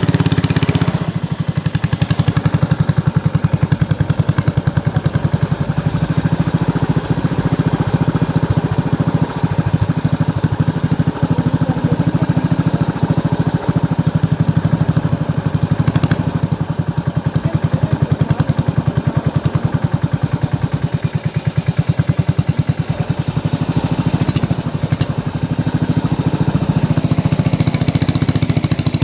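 A small boat's outboard engine running at a steady speed, a fast, even chugging that holds unchanged throughout.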